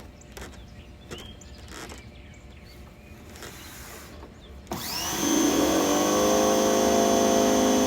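A few faint handling clicks, then a little under five seconds in a DeWalt 2100 PSI electric pressure washer starts suddenly, its motor and pump whining up briefly in pitch and settling into a loud, steady run.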